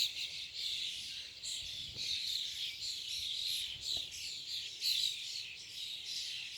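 A large flock of small birds chirping and calling together, a dense, unbroken chatter of many overlapping high chirps.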